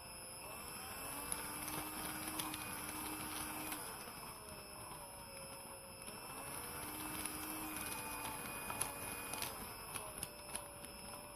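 Drill spinning a 3D-printed plastic planetary gear set, with a motor whine that speeds up and slows down twice and scattered clicks from the plastic gears.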